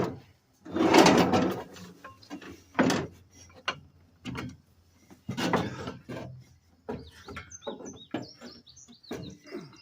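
Short bursts of scraping and knocking from tools being worked against the truck's engine, the loudest about a second in, with small birds chirping through the last few seconds.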